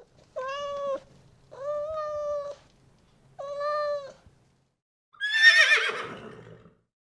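A cat meowing three times, each meow drawn out and steady in pitch. About five seconds in, a horse whinnies once, louder, with a quavering call that falls in pitch.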